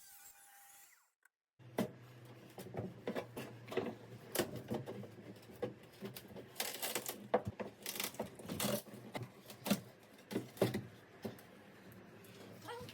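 Irregular knocking, clattering and scraping of hands-on demolition work inside a boat's cabin, starting after a brief silence about a second and a half in, over a steady low hum.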